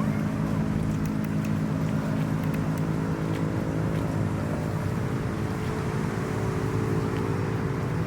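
An engine idling steadily with a low, even hum, from a boat or tow vehicle on the ramp.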